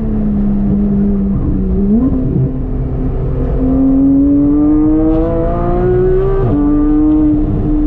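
Porsche 911 GT3 (991.1) 3.8-litre flat-six with an aftermarket exhaust, running hard on track. The note holds steady, gives a quick rise and fall about two seconds in, then climbs in pitch for about three seconds under acceleration. It drops suddenly at a gearshift and holds steady again.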